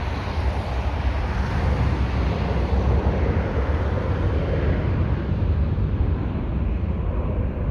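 Jet engine noise of a Boeing 737 climbing away after takeoff: a steady broad rumble whose higher part thins out in the second half as it recedes. Wind buffets the microphone with a deep rumble.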